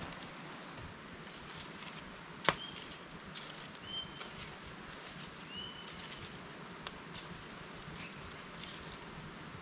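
A bird giving several short upswept whistled calls a second or two apart over a steady hiss, with scattered small clicks and one sharp knock about two and a half seconds in.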